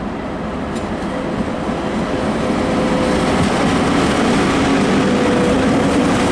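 VL80S electric locomotive approaching with a freight train, its rumble and rail noise growing steadily louder, with a steady hum running under it.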